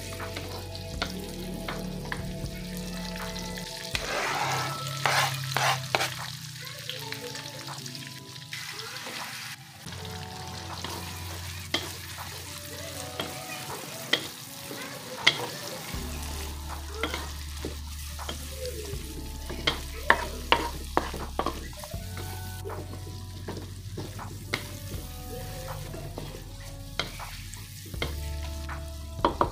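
Small dried fish and chopped shallots sizzling in hot oil in a wok, stirred with a wooden spatula that clicks and scrapes against the pan. The sizzle flares up loudly about four seconds in as the shallots go into the oil.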